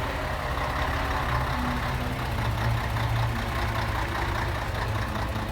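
Heavy truck's diesel engine running steadily at low revs.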